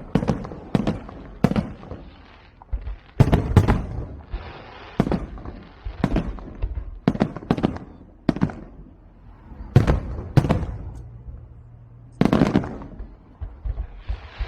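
Fireworks going off: a run of sharp bangs at uneven intervals, roughly one a second, each trailing a short echo.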